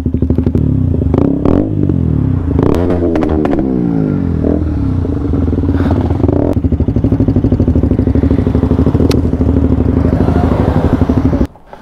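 KTM motorcycle engine running close by. Its pitch swings about three seconds in, then it runs steadily until it cuts off abruptly near the end.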